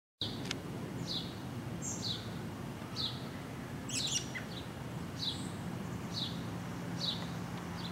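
A songbird repeating a short falling chirp about once a second over a steady low background hum.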